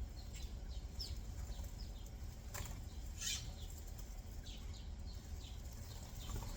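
Small backyard songbirds chirping: short, high, downward-slurred chirps repeated irregularly, with a louder burst of chirps and rustle about three seconds in, over a low steady background rumble.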